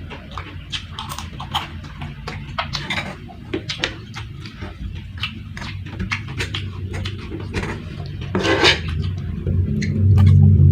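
Close-up eating sounds: a spoon clicking and scraping on a plate, with chewing of fried rice and crunchy crackers. A steady low hum runs underneath and grows louder near the end.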